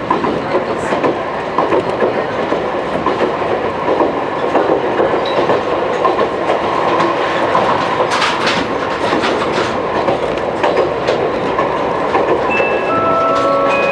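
Wakayama Electric Railway 2270 series train running along the track, heard from inside the passenger car: a steady rumble of wheels on rail with clicks, and a cluster of sharp clicks about eight seconds in. Near the end, a chime melody begins over it: the on-board arrival tune for Kishi.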